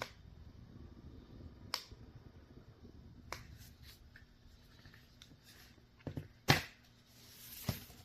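Scattered sharp clicks and knocks of objects being handled, the loudest about six and a half seconds in, over a low steady background hum.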